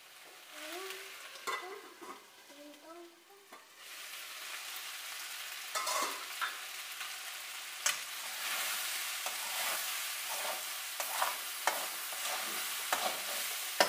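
Chicken pieces sizzling in a metal kadai over a raised flame, the cooking liquid boiled off so the chicken fries dry to brown. The sizzle rises about four seconds in, and a metal spatula scrapes and stirs against the pan several times in the second half.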